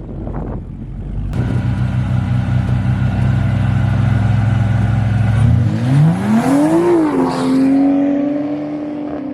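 A race car held at steady high revs on the line, then launching: about five and a half seconds in, the engine pitch climbs sharply for a second and a half, then settles into a steady higher drone as the car pulls away down the strip.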